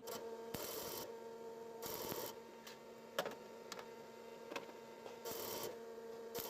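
A small electric motor starts and runs with a steady hum, with several short hissing scrapes and a few sharp clicks over it.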